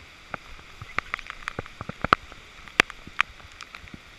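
Raindrops striking close by in irregular, sharp taps of varying loudness over a steady hiss of falling rain.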